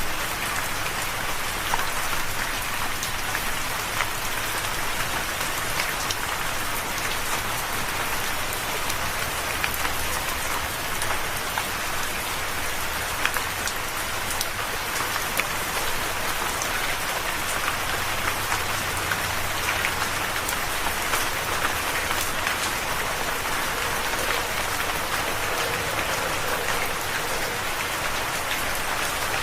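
Steady rain falling and pattering on a surface, with scattered individual drops ticking through the even hiss.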